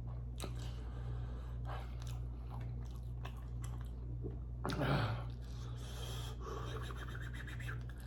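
A person chewing food close to the microphone, with small wet mouth clicks and a short voiced sound, falling in pitch, about five seconds in. A steady low hum runs underneath.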